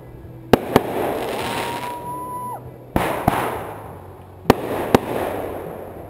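Aerial firework shells bursting in sharp bangs that come mostly in pairs, three pairs about two seconds apart, each followed by a fading crackle. A steady whistle sounds for about a second between the first and second pairs.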